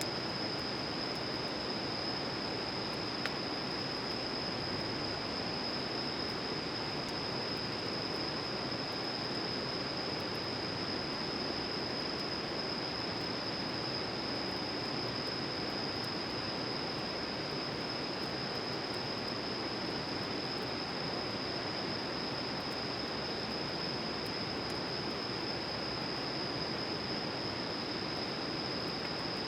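Steady outdoor ambience at a campsite: an even rushing hiss with a constant high-pitched insect drone over it, and a few faint crackles.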